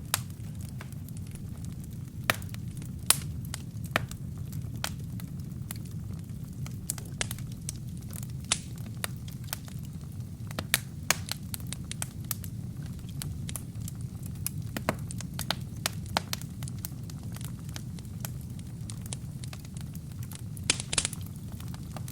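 Wood and kindling burning in a fireplace: a steady low rumble of flame with frequent sharp, irregular crackles and pops, and a quick cluster of crackles near the end.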